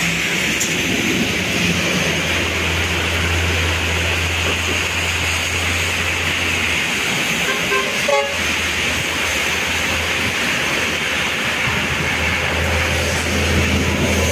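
Heavy tropical rain pouring steadily, with the low engine rumble of a truck and cars driving through it on the wet road, growing near the end. A brief toot sounds about eight seconds in.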